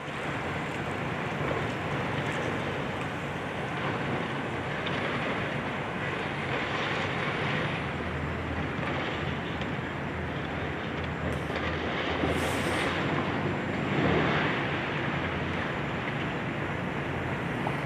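Steady engine drone of heavy demolition machinery such as a high-reach excavator, with a brief high hiss about twelve seconds in.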